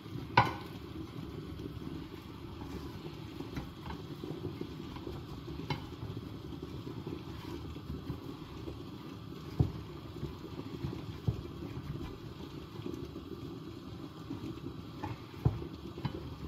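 Breaded chicken frying in hot oil: a steady bubbling sizzle, broken by a few sharp knocks.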